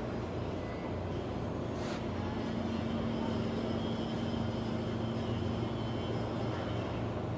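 Steady low mechanical drone with a held hum through most of it, and a single sharp click about two seconds in.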